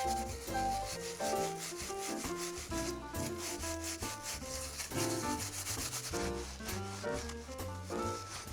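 Rapid, repeated scraping strokes as rust and grime are scrubbed off an old cast-iron takoyaki pan, heard over background music.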